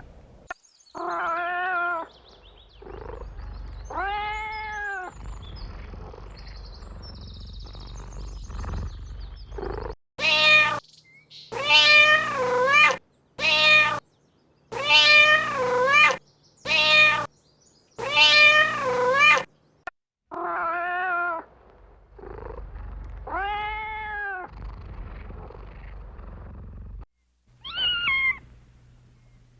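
Kittens meowing again and again, each meow rising and then falling in pitch. In the middle comes a run of six loud meows about one and a half seconds apart, each starting and stopping abruptly. Softer meows are spaced out before and after.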